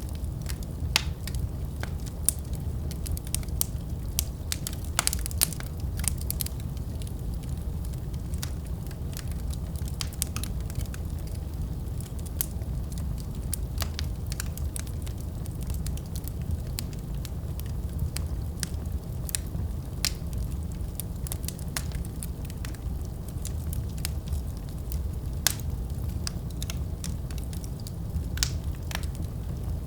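Fireplace fire crackling: a steady low rumble with frequent, irregular sharp pops and snaps.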